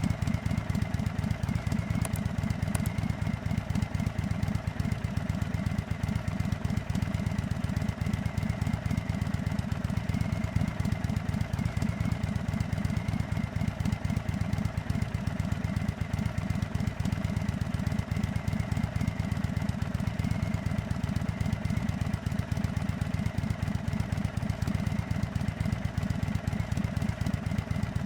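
The big air-cooled Thunderstroke 116 V-twin of a 2024 Indian Springfield Dark Horse idling steadily.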